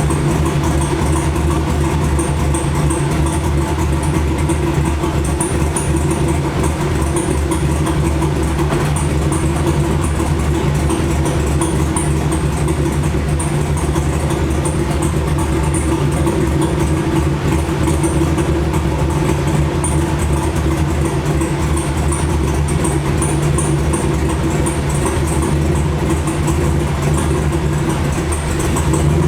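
Engine running steadily at a constant speed, an even drone that holds the same pitch throughout.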